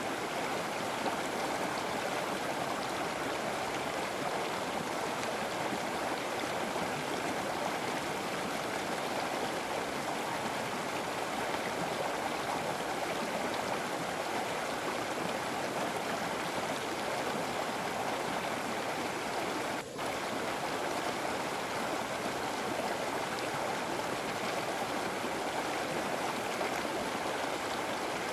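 River water flowing and rushing steadily, with a brief dropout about two-thirds of the way through.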